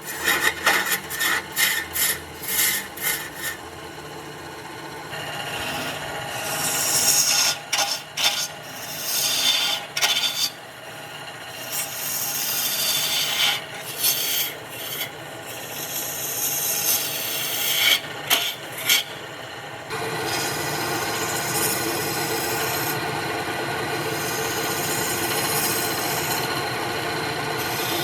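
A tool rubbing and scraping against wood spinning on a wood lathe, in many short repeated passes. About two-thirds of the way through it turns into one steady, continuous contact.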